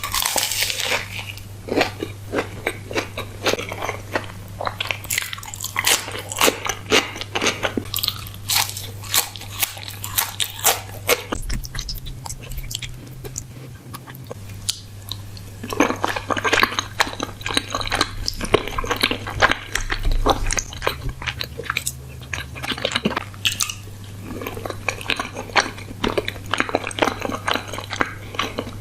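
Close-miked ASMR eating: crisp crunching bites and chewing in dense bursts, easing off twice for a few seconds.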